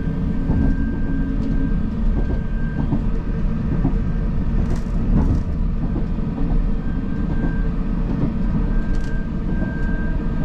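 Diesel passenger train running along the line, heard from inside the carriage: a steady low rumble with a constant whine over it and a few light clicks.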